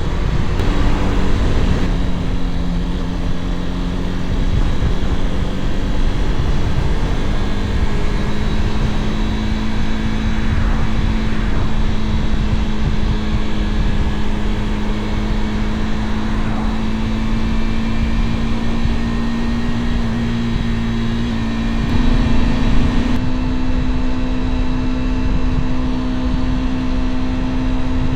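Motorcycle engine running under way, heard over heavy wind rumble. The engine note climbs slowly, then steps up with a brief louder surge about twenty-two seconds in.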